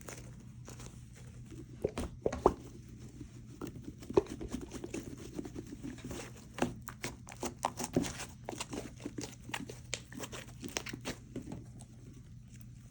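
Slime being squished and stretched by hand, giving a run of quick sticky pops and crackles that thin out near the end.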